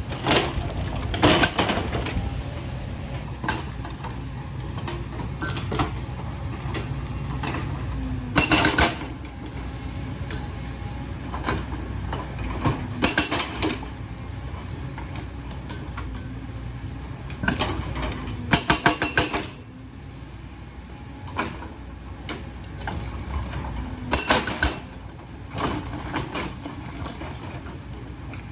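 Excavator's diesel engine running steadily while its bucket works rock, with about four bursts of sharp metal clanks and scraping, the longest a quick rattle of clanks.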